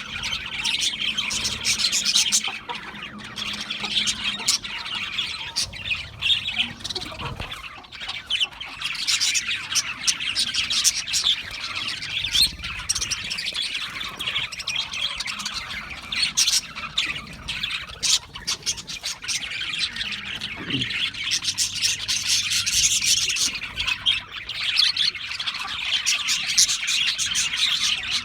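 A flock of budgerigars chattering continuously in a dense mix of chirps and warbles, with sharper squawks here and there.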